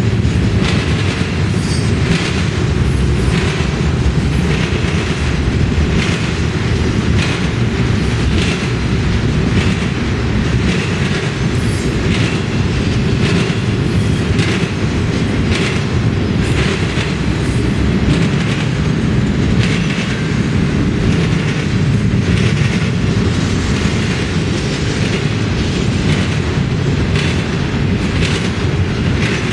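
Intermodal freight train of truck trailers on flatcars rolling past: a steady loud rumble of steel wheels on the rails, with repeated irregular clicks and knocks of the wheels.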